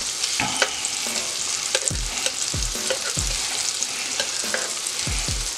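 Granny Smith apple slices sizzling steadily in melted butter in a frying pan, with scattered clicks and dull knocks of metal tongs turning the slices over against the pan.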